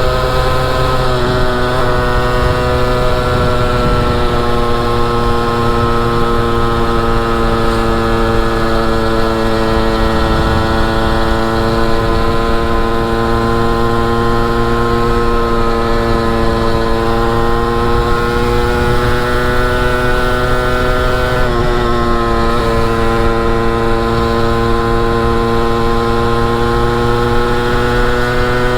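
Motorcycle engine running steadily while riding, its pitch slowly rising and falling, with a short drop and recovery in pitch about a second in and again about twenty-two seconds in.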